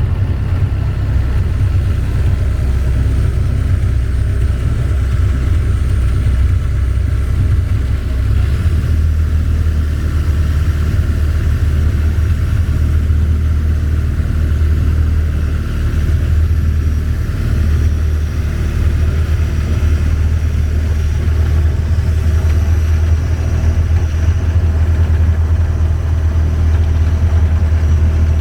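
Long-tail boat's engine running steadily at a constant pace, a loud low drone.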